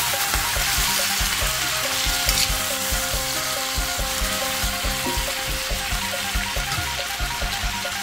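Green beans sizzling in a hot stainless-steel wok as they are stirred and tossed with a spatula, under background music with a steady beat.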